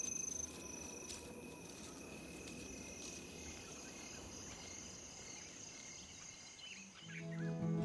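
Night insects, crickets among them, chirping as a steady high-pitched background over soft ambient noise, slowly fading. Soft music comes in near the end.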